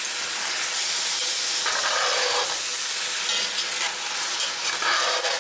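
Meat and onions sizzling and steaming hard in a hot cast-iron Dutch oven just after liquid has been poured in, with a spoon stirring through the pot. There are two brighter stirring or scraping strokes, about two seconds in and near the end.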